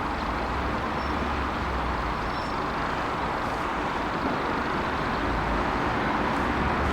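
Jet airliner approaching to land: a steady engine rumble and rush that grows slowly louder.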